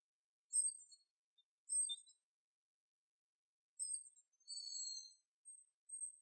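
Small songbirds chirping: high, short chirps about half a second in, near two seconds and near four seconds, then a longer call that falls slightly in pitch around five seconds, and a few more short chirps near the end.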